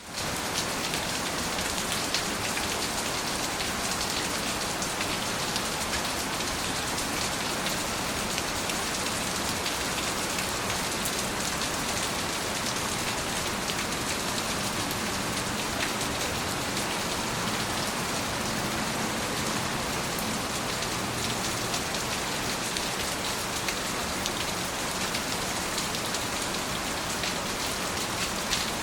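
Steady rain falling and pattering on surfaces, with scattered individual drops ticking through the even hiss.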